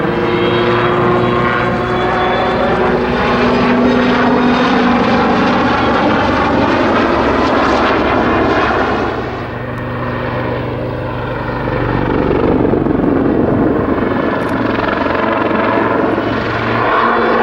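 Westland Lynx military helicopter's rotor and twin turboshaft engines in aerobatic flight, a loud, continuous hum and rotor noise that dips briefly about ten seconds in and swells again.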